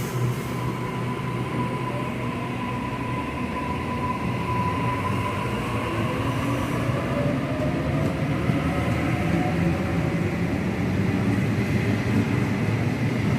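Sydney Trains electric suburban train running at the station, a steady rumble with a thin whine and faint rising motor tones, growing gradually louder.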